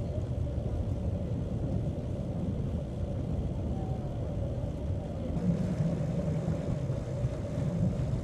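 A boat's motor running steadily, with a constant low rumble and an even mid-pitched drone.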